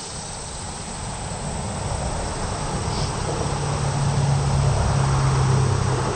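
Motor vehicle driving past, its engine drone growing steadily louder and at its loudest near the end.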